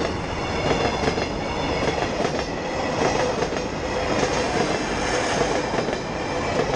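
Freight train running along the rails, its wagons' wheels clattering steadily over the track with frequent small clicks and a faint steady high ringing.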